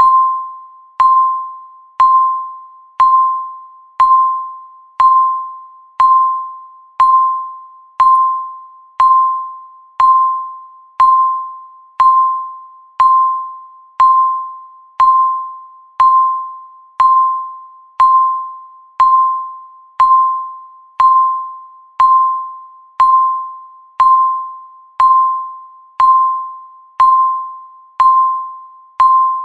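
Countdown timer's per-second tick: one sharp, bell-like ping every second, each dying away before the next.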